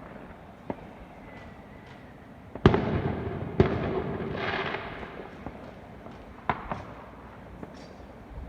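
Fireworks going off: two loud bangs about a second apart near the middle, followed by a fading crackle, with smaller pops scattered before and after.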